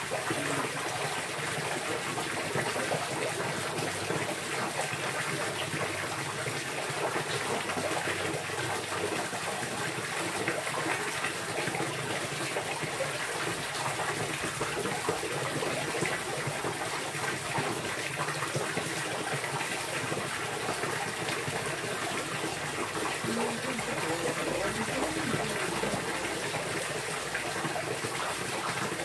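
Steady rush of running or splashing water, with no let-up.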